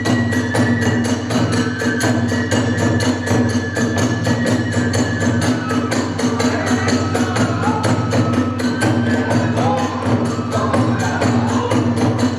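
Kagura hayashi: drum and hand cymbals keep a fast, steady beat while a bamboo flute plays long held notes over it, moving between a few pitches.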